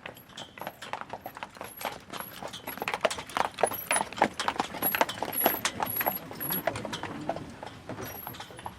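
Horse and carriage passing: the horse's hooves clip-clop on a hard surface, growing louder through the middle and fading near the end.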